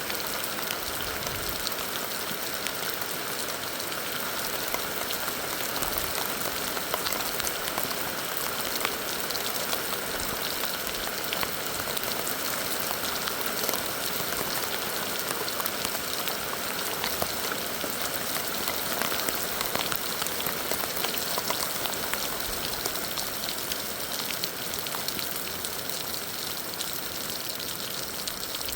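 Heavy rain falling steadily, a dense even hiss with many small drop impacts.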